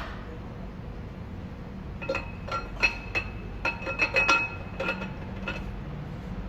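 A quick run of light metallic clinks, each with a short ring, about a dozen packed into the middle few seconds, over a low steady hum: hand tools or metal engine parts knocking together during engine work.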